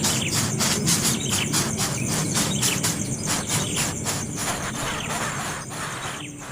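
Baby bird chirping: rapid high chirps, about four to five a second, some sliding down in pitch, over a low steady hum, growing fainter near the end.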